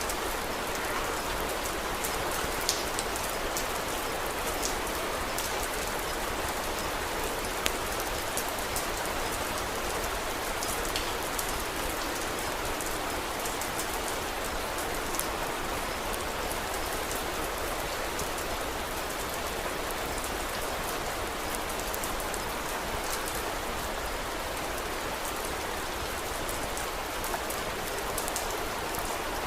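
Steady rain falling, an even hiss with scattered sharp little crackles and ticks, a few standing out over the rest.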